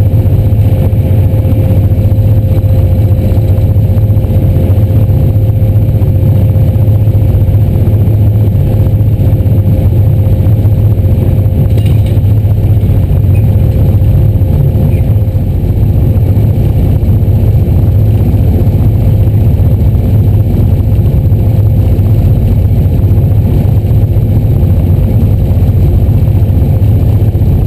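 A moving train heard from on board, running with a steady, loud low rumble and a thin steady hum above it.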